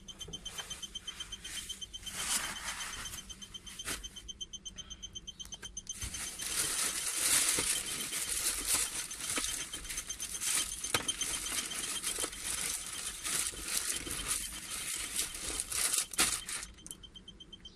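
Rustling and crinkling noise with scattered light clicks, heaviest from about six seconds in until near the end. A faint, steady, finely pulsing high whine runs underneath.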